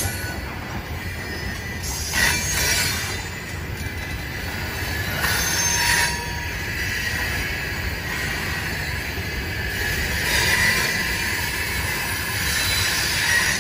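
Loaded coal hopper cars of a freight train rolling past over a grade crossing. The steel wheels keep up a steady rumble on the rails, with a high wheel squeal now and then and louder bursts of clatter about two, six and ten seconds in.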